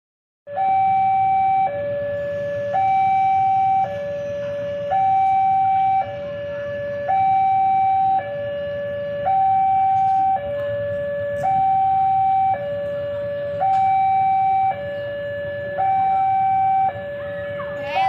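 Two-tone hi-lo siren, alternating steadily between a higher and a lower note about once a second, starting abruptly about half a second in.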